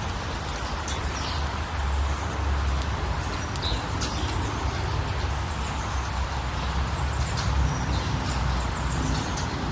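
Outdoor nature ambience: a steady low rumble under a haze of noise, with short high bird chirps scattered through it.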